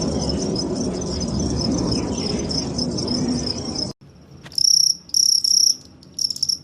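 Crickets: a continuous high chirring trill over a low background rumble, then, after a cut about four seconds in, a cricket chirping in several separate loud bursts.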